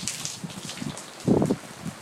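Rain falling and spattering on nearby surfaces, with small scattered drop ticks. A brief louder thump comes a little past the middle.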